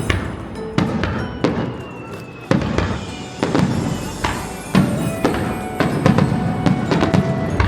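Fireworks shells bursting in a quick series of booms, about one or two a second, each followed by a rolling echo, with music playing alongside.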